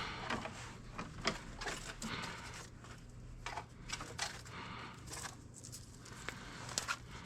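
Scrap electrical wire being handled and turned over by hand: scattered light clicks and rustling at irregular intervals.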